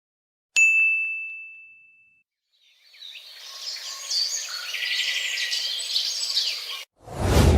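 A single bell-like ding that rings out and fades over about a second and a half, then birds chirping and twittering for about four seconds, cut off abruptly. Just before the end a sudden loud noise starts.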